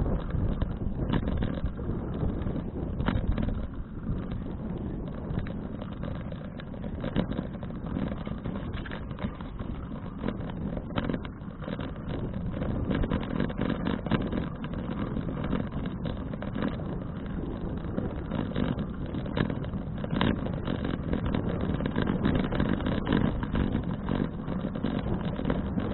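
Wind buffeting an action camera's microphone, with road noise from a folding bicycle being ridden: a steady, uneven rumble dotted with many small clicks and rattles.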